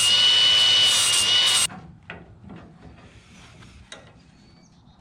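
Handheld electric power tool running loud and steady with a high whine, cut off about a second and a half in, followed by a few faint knocks and handling sounds on the metal.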